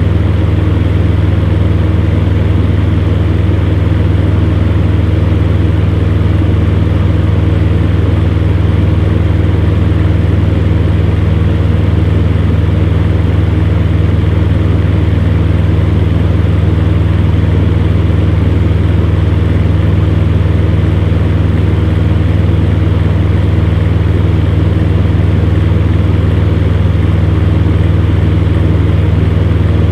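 Electric fan running steadily: a strong low motor hum with a few steady tones above it and an even rush of air, unchanging throughout.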